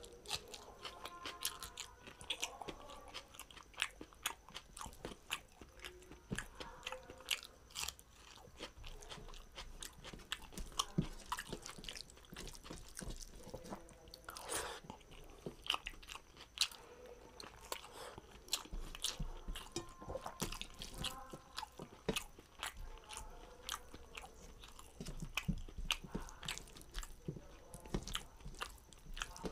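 A person eating rice and dal by hand: continual chewing with many quick wet smacks and clicks of the mouth, now and then fingers mixing food on a steel plate.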